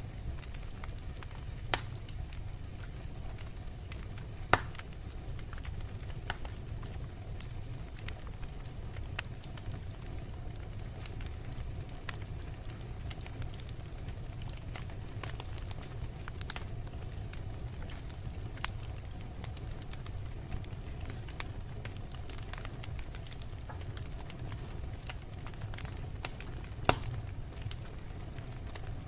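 Wood fire burning in a fireplace: a steady low rumble of the flames with scattered sharp crackles and pops from the logs, three louder pops standing out, one about 2 s in, one about 4.5 s in and one near the end.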